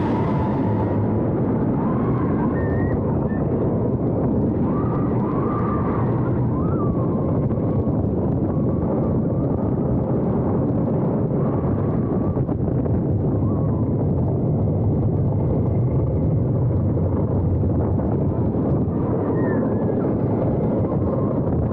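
Roller coaster ride heard from on board: a loud, steady rumble of the coaster train running along its track.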